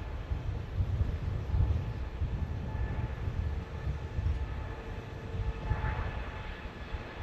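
Jet airliner engines giving a low, uneven rumble, with a faint steady whine above it.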